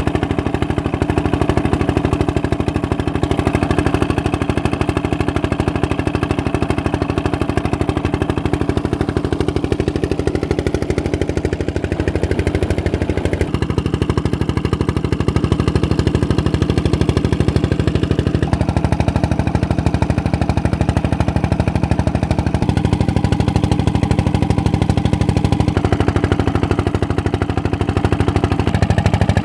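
Old stationary engine running a tubewell water pump, a steady engine sound whose tone changes abruptly several times.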